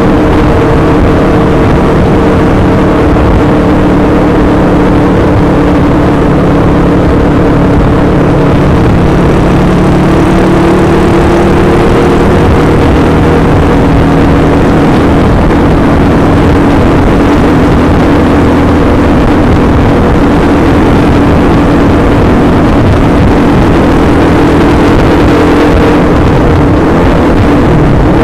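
Honda Win 100's single-cylinder four-stroke engine running flat out at steady high revs, its pitch holding nearly level, under heavy wind noise on the microphone.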